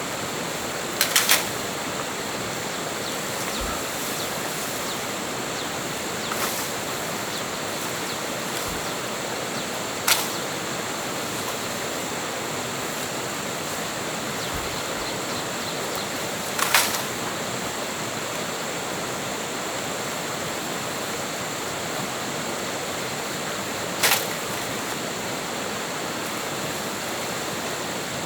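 Steady rush of stream water, with a few sharp knocks: a quick cluster of three just after a second in, then single ones spaced several seconds apart.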